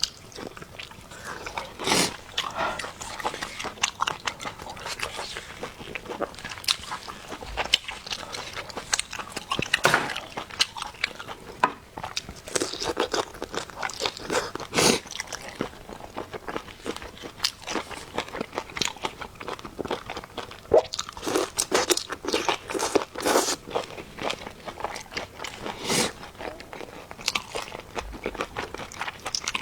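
Close-miked eating: biting and chewing food, with frequent irregular crisp crunches and clicks.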